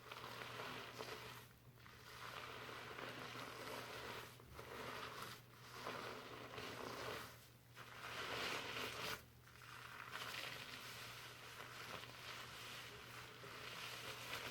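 Fingers working shampoo lather through hair, a crackly rustling of foam and bubbles in strokes, with short pauses every second or few.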